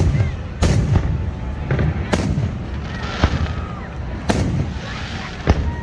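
Aerial fireworks going off: five sharp bangs over about six seconds, with low rumbling echoes between them.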